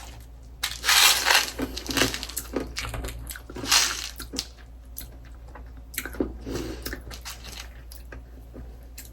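A person crunching and chewing a mouthful of small hard sour candies, in irregular bursts, loudest about a second in and again about four seconds in.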